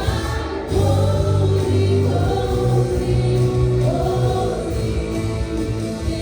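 Live church worship music: a worship team singing together over band accompaniment, with the bass coming in strongly just under a second in.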